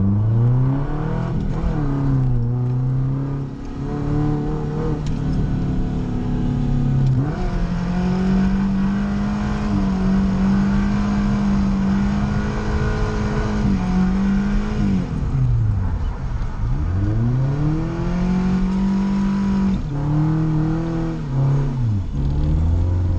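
Toyota 1UZ-FE V8 swapped into a Nissan 240SX, revving hard through a drift, heard from inside the cabin. The revs climb and hold high for several seconds. About fifteen seconds in they drop sharply and pick back up, with more quick dips and climbs near the end.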